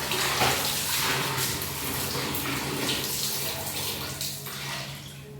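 Water splashing and streaming as long hair is flipped through water, with uneven louder surges that fade near the end.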